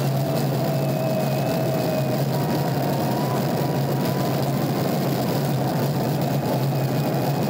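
McLaren 650S Spider's twin-turbo V8 running at a steady cruise, heard from just above the mid-mounted engine with the roof down, under a steady rush of wind and road noise.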